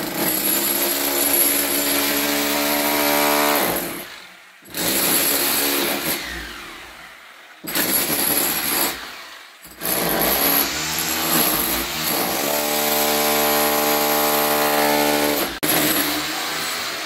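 Electric drill boring into a wall, running in several long runs with short stops between them. Its motor pitch sags as the bit bites under load.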